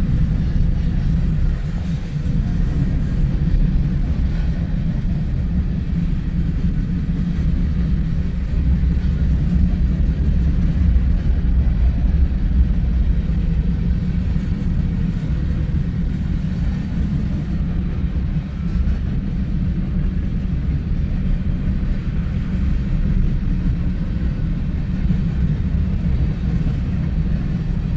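Freight train cars rolling past close by: a steady, heavy rumble of steel wheels on the rails.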